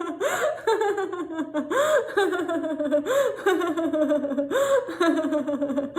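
A woman laughing steadily in repeated runs of quick 'ha-ha' syllables, each run falling in pitch and starting again about every second and a half: deliberate laughter-yoga laughing.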